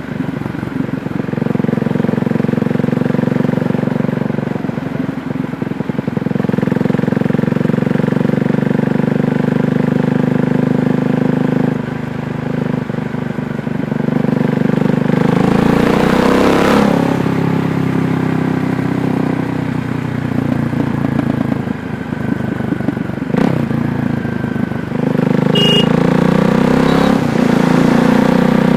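KTM Duke 390's single-cylinder engine running steadily on the move, with a few easings of the throttle. A rush of noise swells and fades about sixteen seconds in.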